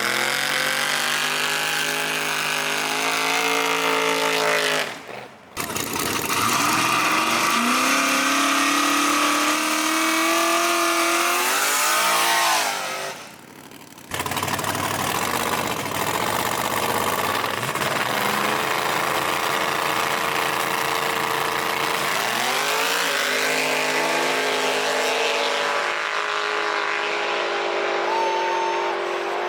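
Drag race car engines accelerating hard, pitch climbing with each run, in three separate passes cut together.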